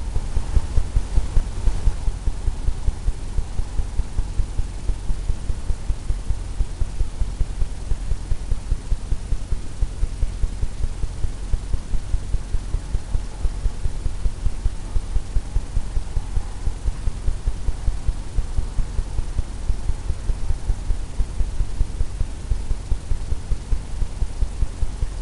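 Low, soft thumps in an even rhythm of about three a second: a stretched canvas being tapped as paint is worked onto it.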